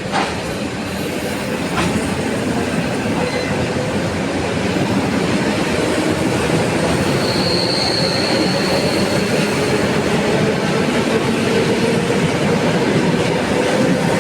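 Train running on the rails through a station: a steady rumble of wheels and cars that grows slightly louder, with a brief high wheel squeal about halfway through.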